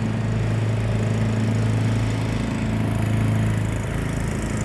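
Troy-Bilt lawn tractor's engine running steadily with an even hum.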